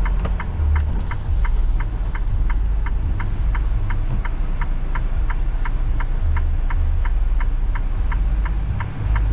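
Inside a semi-truck cab: the diesel engine's low, steady rumble under an even clicking of the turn-signal flasher, about three clicks a second.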